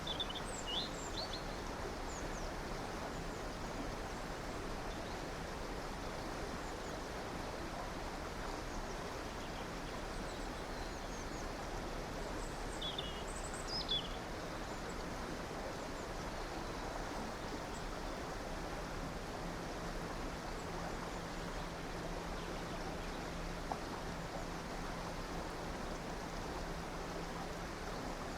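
Stream or river water running with a steady rushing, and a few short, high bird chirps near the start and about halfway through.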